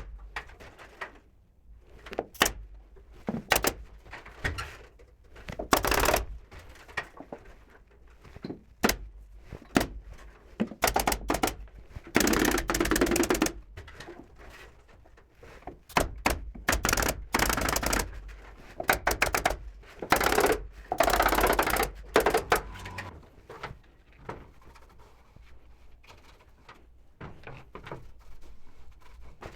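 Woodworking noises from building a wardrobe header: sharp knocks and clicks in irregular runs, with a few longer rattling, noisy stretches of work on the wood in between.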